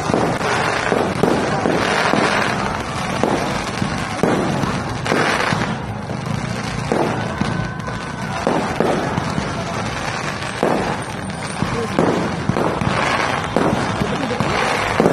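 Aerial fireworks going off in a continuous barrage: frequent sharp bangs of bursting shells, several a second, with crackling between them.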